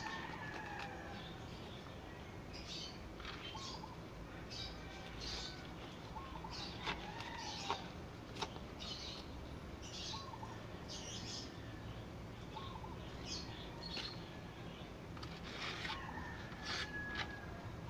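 Small birds chirping on and off, short high chirps every second or so with a few brief whistled notes. Two sharp clicks come about eight seconds in.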